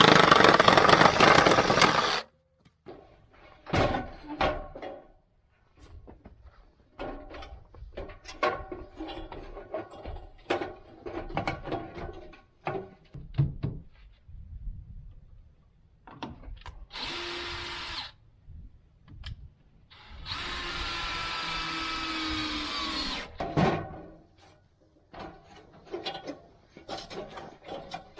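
Power drill running in short bursts. The longest burst lasts about three seconds and its pitch drops as the motor winds down. Around the bursts are scattered knocks and the clatter of lumber and tools being handled.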